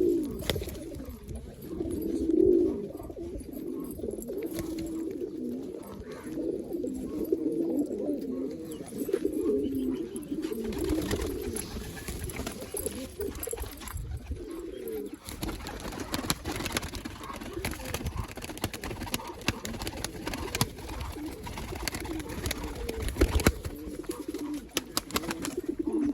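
Several domestic roller pigeons cooing, their low, wavering coos overlapping without a break. Scattered short clicks and taps join in from about halfway through.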